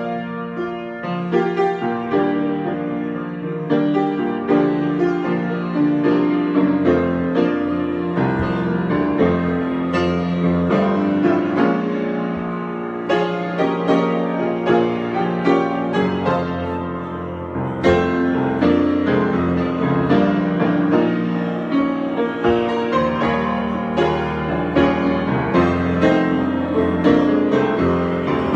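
Solo piano improvisation played continuously: chords with low bass notes under a run of frequent melody notes.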